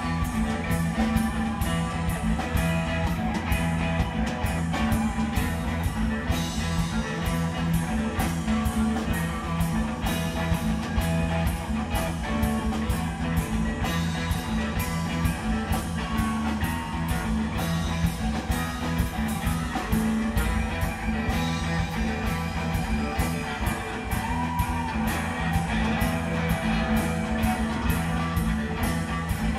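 Live jam band playing an instrumental blues-rock jam: electric guitar over bass and a drum kit keeping a steady beat.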